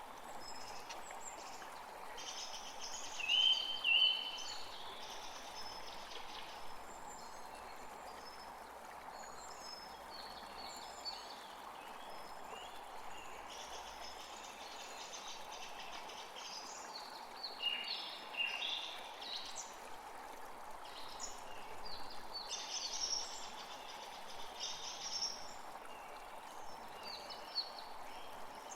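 Several wild birds chirping and trilling in quick, overlapping phrases over a steady background rush. Two loud high chirps come about three and four seconds in.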